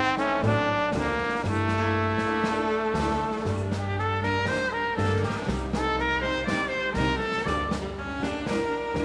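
Live dance band playing an instrumental passage, with the brass section of trumpets and trombones carrying sustained melody notes over a moving bass line.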